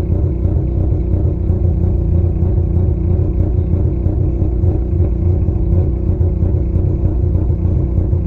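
Mazda RX-8's twin-rotor Renesis rotary engine running steadily while the car is driven, heard as a low, even drone from inside the cabin.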